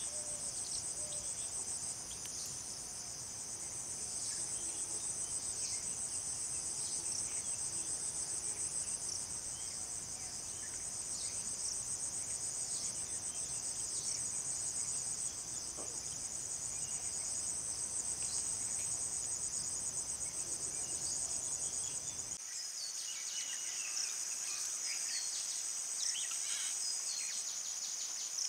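A chorus of insects, likely crickets, trilling in a steady, high, finely pulsing drone without a break. About three-quarters of the way in, a low background rumble cuts off suddenly, and faint short chirps come through over the trill.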